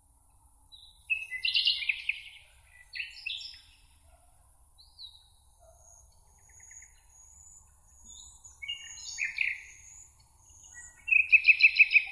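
Songbirds singing: several short warbling phrases, thin high notes in the middle, and a rapid trill of about eight notes near the end, over a steady faint hiss.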